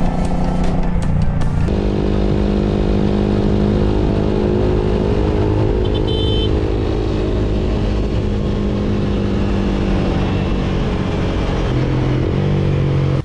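Motorcycle engine running at a steady speed, its note holding constant, then dropping near the end.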